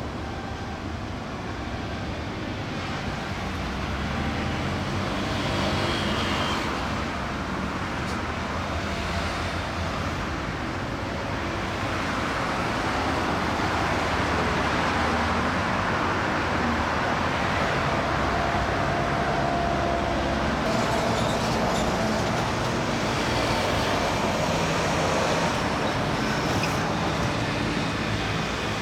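Steady outdoor background rumble and hiss, with faint steady tones coming and going over it.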